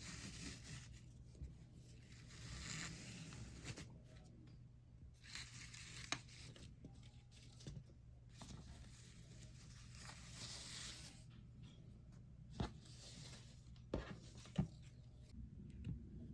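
Packaging rustling and tearing in slow, faint swells, with a few sharp clicks.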